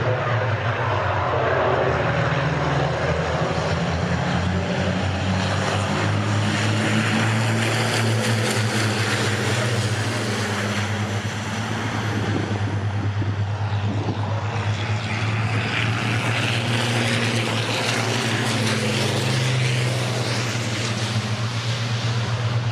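Heavy engines running with a steady low drone, swelling and fading twice as the sound passes by.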